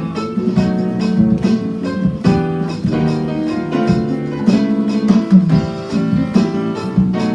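Music: a guitar strummed in quick chords that change every second or so.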